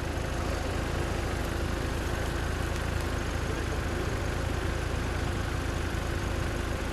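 An off-road 4x4's engine running steadily at low revs.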